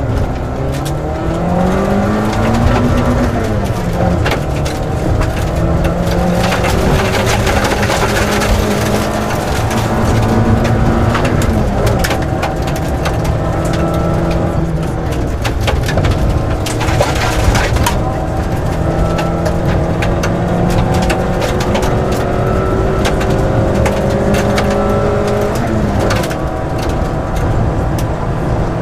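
Rally car engine being driven hard, its pitch climbing under acceleration and dropping back at each gear change, again and again. There are stretches of loud hiss and many short clicks.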